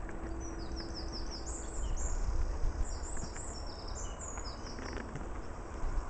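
Songbird singing in the woods: several short phrases of quick, high, falling chirps over a low steady rumble.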